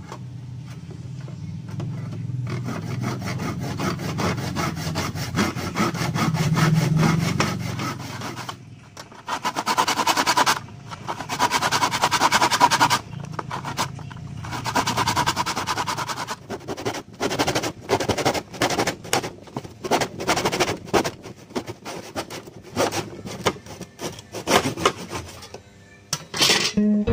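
Hand back saw cutting wood in a plastic miter box, in a steady run of back-and-forth strokes; in the second half the strokes come apart into separate, distinct pulls before stopping near the end.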